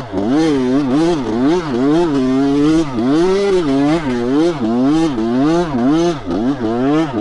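Dirt bike engine being ridden hard off-road, its revs swinging up and down again and again, about two to three times a second, as the throttle is worked.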